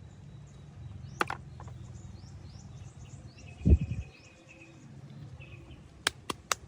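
Handling noises over a low steady hum, with faint bird chirping: a single thump a little under four seconds in and a few sharp clicks, three of them close together near the end.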